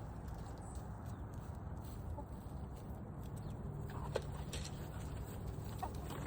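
Backyard chickens clucking: a few short, faint clucks in the second half, over a steady low rumble.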